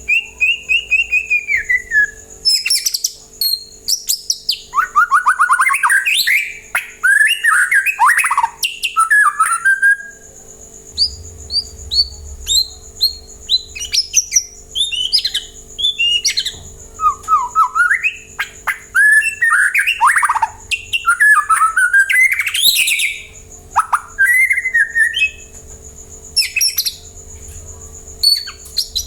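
White-rumped shama (murai batu) singing a long, varied song of loud clear whistles, slurred downward notes and rapid chattering phrases, with brief pauses between bursts.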